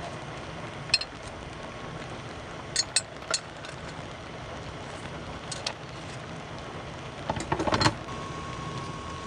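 Steady rain noise with a few sharp clicks of things being handled about a second and three seconds in, and a short cluster of knocks near the end. A faint steady high tone sets in after the knocks.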